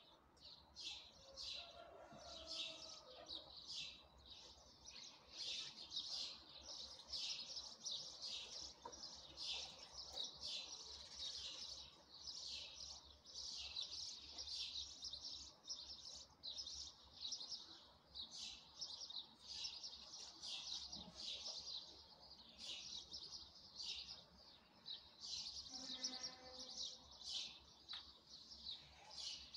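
Small birds chirping outdoors, a steady stream of short high chirps overlapping one after another.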